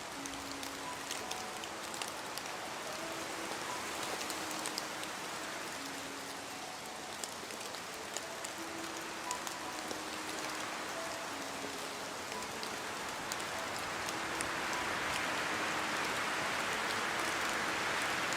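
Steady rain falling, with scattered sharp drop ticks, swelling louder about three-quarters of the way through. Faint, sparse, held musical notes sound softly underneath.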